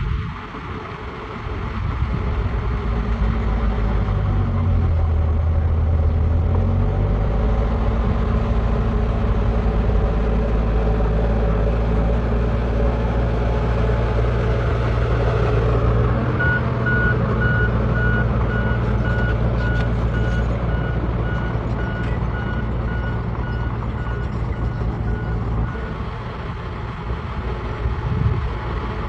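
Heavy diesel machine engine running steadily. From a little past halfway a reversing alarm beeps repeatedly for about ten seconds, then stops.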